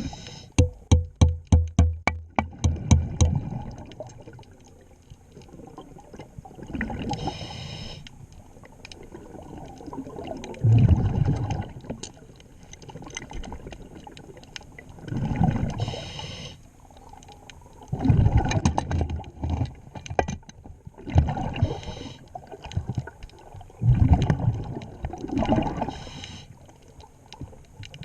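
Scuba diver breathing underwater through a regulator: a hiss on each inhale, then a bubbly gurgle of exhaled air, repeating every few seconds. It opens with a quick run of knocks, about a dozen in three seconds.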